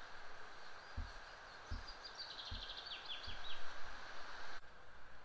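A small songbird sings one short phrase of quick, falling high notes over a steady background hiss of the woods, with a few soft low thumps.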